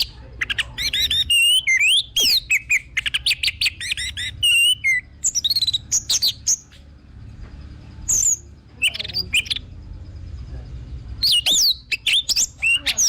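Orange-headed thrush (anis merah) singing a fast, varied song of whistled, sliding phrases in several bursts, with short pauses between them.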